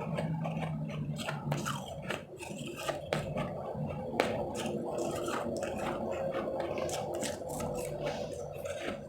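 Powdery refrozen ice chips being bitten and chewed close to the microphone, with many sharp, irregular crunches.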